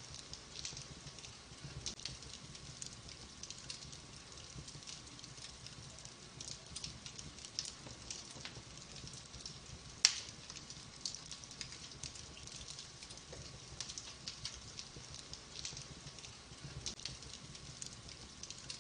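Wood fire burning in a fireplace: a steady scatter of small crackles and ticks over a low rumble of flames, with one loud sharp pop about halfway through.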